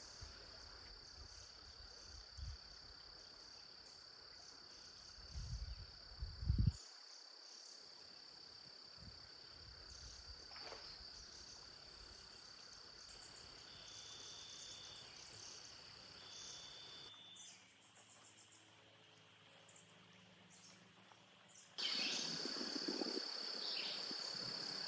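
Chorus of cicadas: a steady high-pitched drone that shifts in pitch and loudness at edits, louder over the last few seconds. A couple of brief low thumps about five to seven seconds in.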